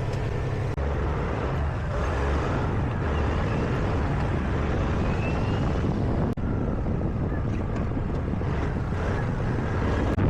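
Tractor-trailer's diesel engine running steadily, with wind noise on the microphone.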